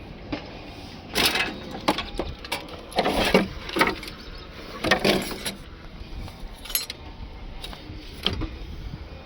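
Tools and scrap metal being rummaged and handled, clanking and knocking irregularly, with a busy cluster of clatters from about one to six seconds in over a low rumble.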